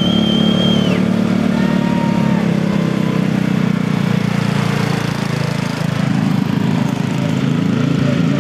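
Riding lawn mower engines running hard during a race, their pitch wavering after about five seconds. A high, steady whistle sounds over them for about the first second.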